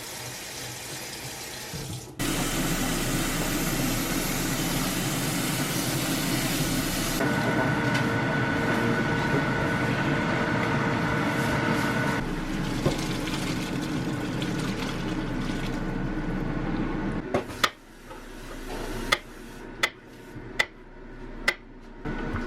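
Tap water running into a sink during hand washing: a steady rush that starts abruptly about two seconds in and stops suddenly about three-quarters of the way through, followed by a few sharp clicks.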